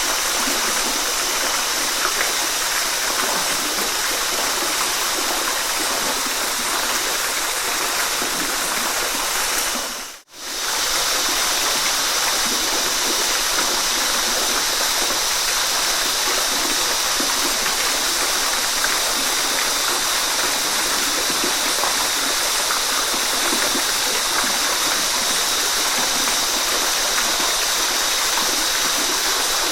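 Waterfall rushing steadily, a dense even roar of falling water, which fades briefly almost to silence about ten seconds in and then comes straight back.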